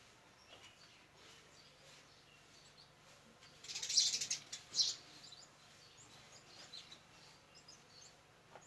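Small birds chirping faintly and intermittently. A louder, scratchy burst of high sound comes about three and a half to five seconds in.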